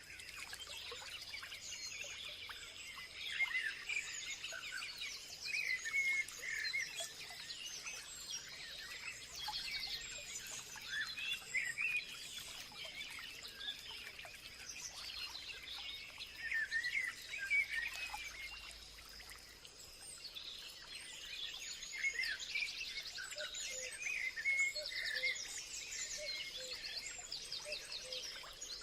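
A chorus of many birds chirping and singing over one another, with quick trills now and then. A steady high thin tone runs underneath.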